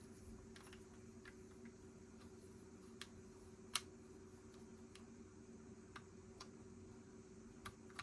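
Plastic Lego bricks clicking as pieces are handled and pressed together: scattered sharp clicks, the loudest a little before four seconds in, over a faint steady hum.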